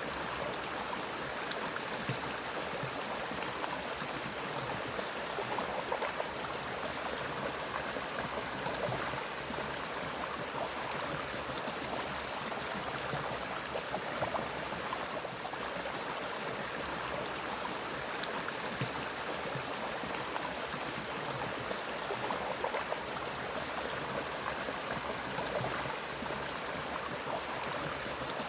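Forest stream flowing and gurgling over rocks in a steady wash, with a constant high-pitched tone running over it.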